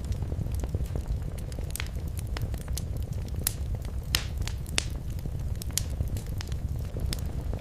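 Wood fire crackling in a fireplace: irregular sharp pops and snaps over a steady low rumble, with a louder pop a little after four seconds in and another near five.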